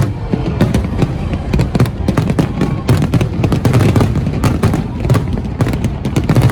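Large fireworks display: a dense barrage of overlapping bangs and crackling bursts that begins abruptly.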